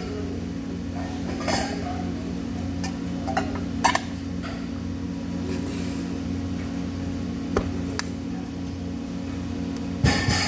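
Steady mechanical hum with a few sharp metallic clinks and taps, and a louder clatter near the end.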